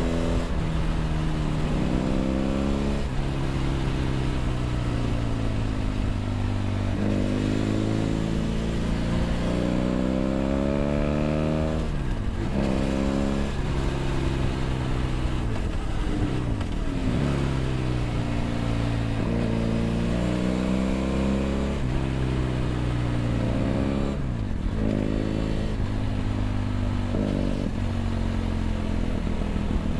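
BMW F800GS parallel-twin engine through a LeoVince LV ONE EVO stainless slip-on exhaust, heard onboard while riding. The engine pitch climbs under throttle and drops sharply at each gear change or roll-off, several times over.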